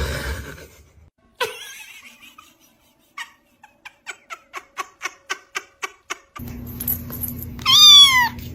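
A quick run of about a dozen short, even pulses, then over a steady hum one loud pet call that falls in pitch.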